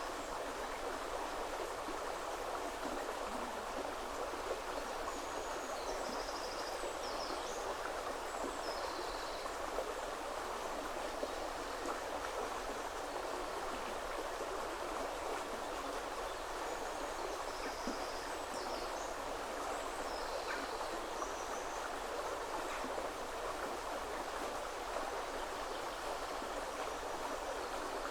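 River water running steadily over stones. A songbird's short, high-pitched chirping phrases come through twice, about a quarter of the way in and again past the halfway point.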